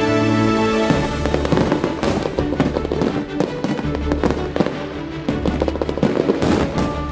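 Aerial fireworks crackling and popping in quick succession, many sharp reports a second, over background music with a deep bass.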